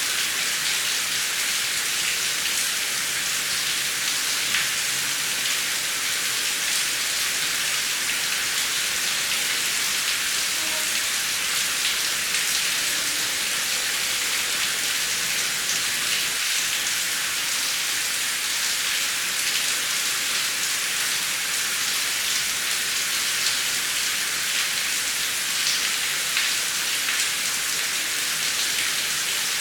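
Heavy rain falling steadily: a dense, even hiss with individual drop hits scattered through it.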